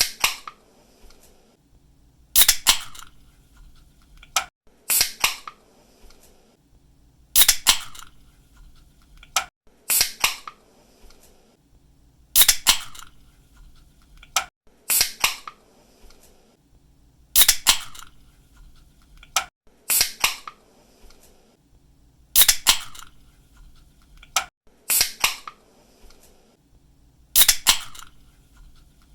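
Aluminium drink can's pull tab cracked open with a snap, over and over, about every two and a half seconds. Each opening is a small click followed at once by a loud, short burst of crack and release.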